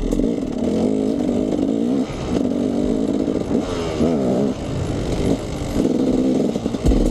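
KTM 300 EXC two-stroke enduro dirt bike engine revving up and down as it rides over rough ground, its pitch rising and falling repeatedly.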